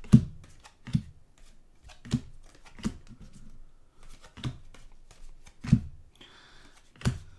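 Trading cards being flipped and set down one at a time onto a stack, a short slap about once a second, seven in all.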